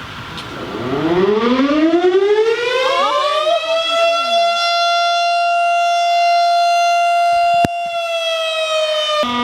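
Outdoor fire siren winding up: its wail rises steadily in pitch for about four seconds, then holds loud and steady, dipping slightly near the end.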